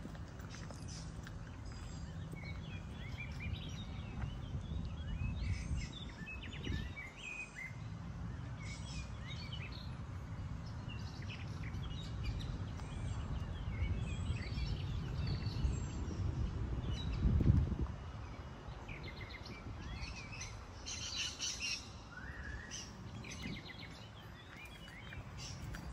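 Many small birds chirping and calling, short repeated notes throughout, over a steady low rumbling background. A brief, louder low burst of noise comes about two-thirds of the way through.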